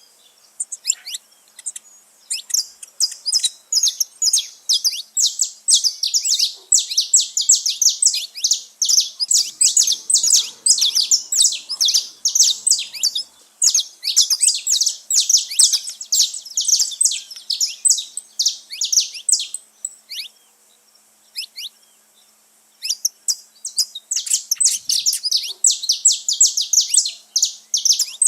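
Saffron finches singing: a dense stream of quick, high chirping notes that breaks off for about two seconds near the end, then starts again.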